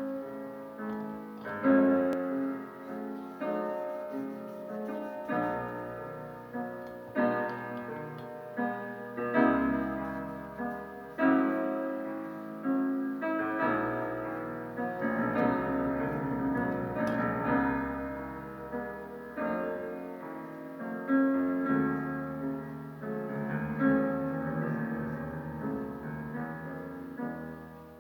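Solo piano music, slow and gentle, with notes and chords struck every second or two.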